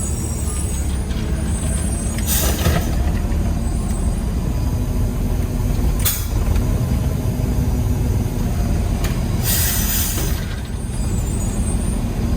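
Peterbilt 320 garbage truck's engine running steadily, with loud hisses of air from the air brakes about two seconds in, briefly near six seconds, and for about a second near ten seconds.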